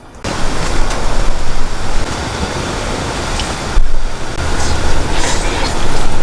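Heavy downpour with strong wind: a loud, dense rushing noise with a low rumble, dropping out briefly about four seconds in and then coming back.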